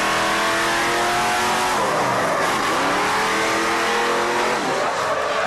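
A motor vehicle's engine revving hard, loud. Its pitch sinks over the first two seconds and then climbs again; about four and a half seconds in it drops suddenly and climbs once more, like a gear change under acceleration.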